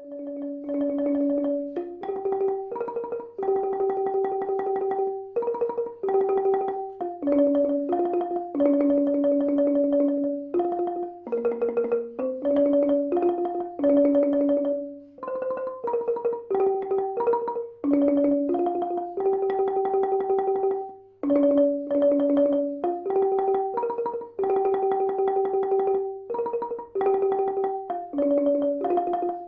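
Ranat ek, the Thai wooden xylophone, playing a slow melody in octaves, each note sustained by fast repeated mallet strokes.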